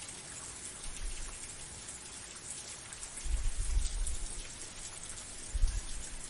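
Steady rain falling, an even hiss with individual drops pattering through it. A deep low rumble swells up about halfway through and a shorter one comes near the end.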